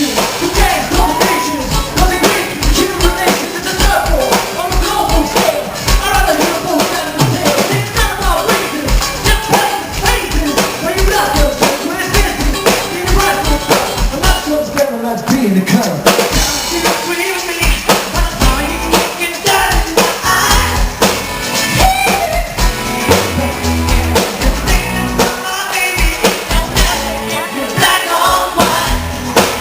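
Live pop band playing with a driving drum beat and a male lead vocal singing over it.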